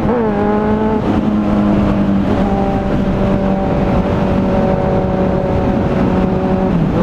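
Suzuki GSX750W inline-four motorcycle engine running at steady revs on the move, just after a gear change, with wind rush over the microphone. The revs dip slightly near the end.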